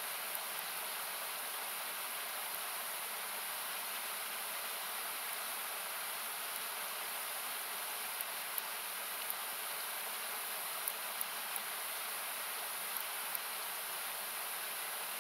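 Steady rushing of a nearby river, with a few sharp crackles and pops from a wood campfire, mostly in the second half.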